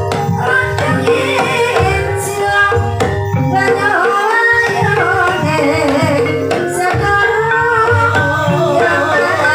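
Javanese gamelan music accompanying an ebeg hobby-horse dance: hand drums and tuned metal percussion playing steadily, with a singer's wavering vocal line over them.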